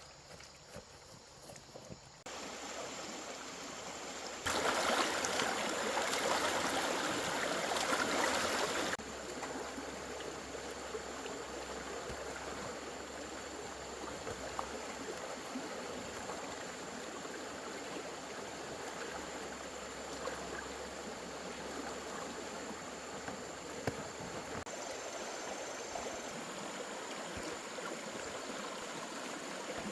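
Steady rushing of water. It starts abruptly about two seconds in, is louder from about four and a half to nine seconds, then carries on evenly.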